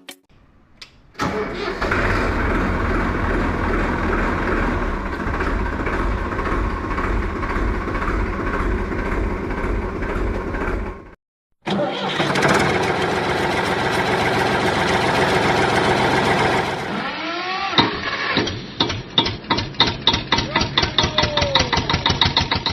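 Tractor engine sound running steadily, broken off abruptly for a moment about halfway. Near the end it gives way to a run of quickening knocks, like an engine cranking and catching.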